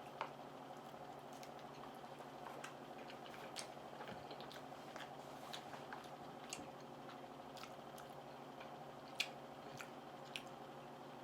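Mouth sounds of someone eating: chewing with open-mouthed lip smacking, heard as scattered short wet clicks, over a steady low hum.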